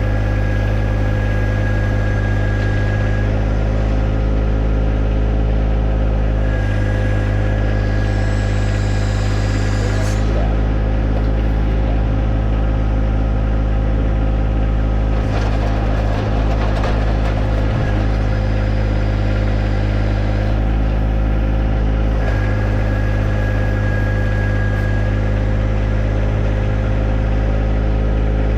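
John Deere 1025R compact tractor's three-cylinder diesel engine running steadily while working the backhoe, with a high whine that comes and goes several times and a short burst of rattly noise a little past halfway.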